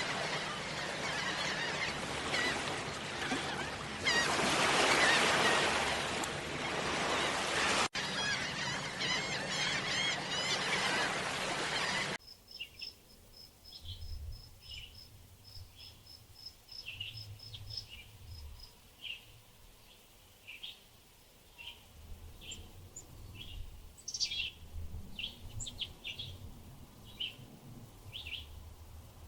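Small birds chirping and calling. For the first part a loud, dense rushing noise covers the calls; about twelve seconds in it cuts to a quieter stretch with a high note repeated about three times a second and scattered short chirps.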